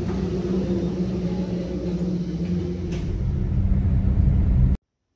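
Steady low engine hum and rumble of a motor vehicle, growing louder shortly before it cuts off abruptly near the end.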